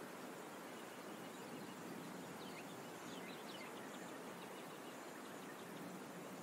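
Steady background hiss of outdoor ambience, with a few short, faint bird chirps around the middle.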